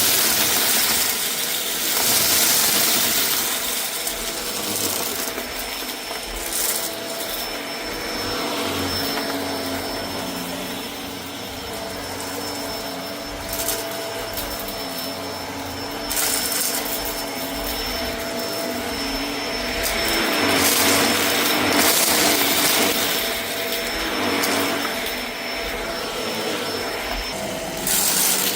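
Vacuum cleaner running over a rug sprinkled with debris, with a steady high whine and motor hum. Its rush of air swells and eases every few seconds.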